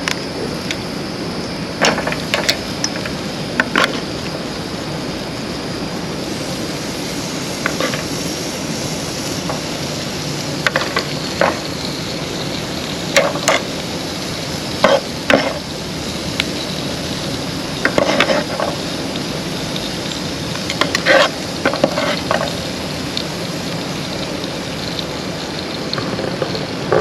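Chicken sizzling on a grill over a campfire: a steady hiss, with scattered clicks and knocks from metal tongs placing the pieces on the grate.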